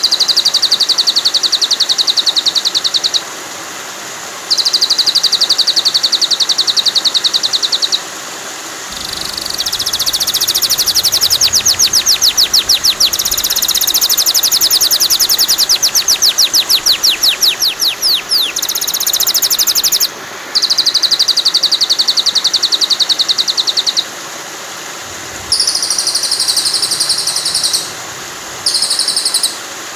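Songbird trills from a bird-song tutoring recording over steady running water. The very high, rapid trills come in stretches of a few seconds separated by short breaks, and a long middle run ends in falling sweeps.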